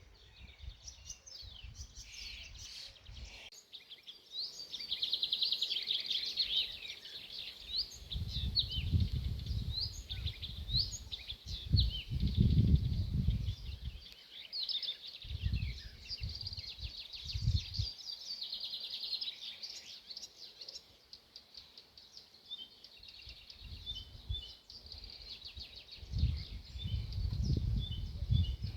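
Several songbirds singing and chirping over one another, with quick trills and short repeated notes. Several times, spells of low rumbling noise swell and fade under the song.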